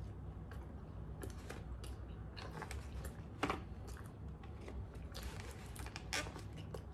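A person chewing mouthfuls of hot dog and bun, with clicks and crackles from the paper food trays being handled; the two sharpest crackles come about halfway through and near the end.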